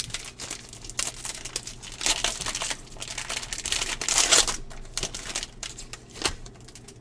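Plastic-foil wrapper of a Topps baseball card pack being torn open and crinkled in the hands, an irregular run of crackles that is loudest a little past the middle.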